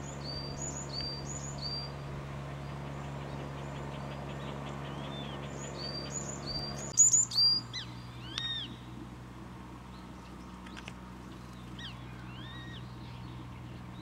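Wild birds calling: runs of short, high chirps a few to the second, loudest about seven seconds in, with single arched whistled notes scattered through. A steady low hum sits underneath and changes about seven seconds in.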